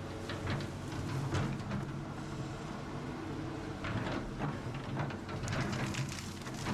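Excavator engine running steadily, with repeated sharp knocks and scrapes over it from the digging work.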